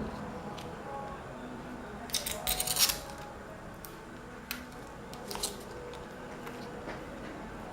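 Small sharp clicks from handling the tablet and its parts: a quick run of clicks about two seconds in, then a few single clicks later.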